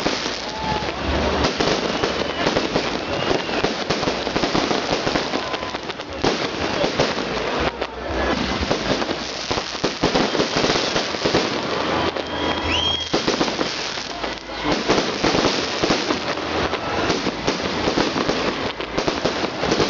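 Fireworks salute: a dense, continuous crackling and popping of many bursting shells, with deep booms now and then.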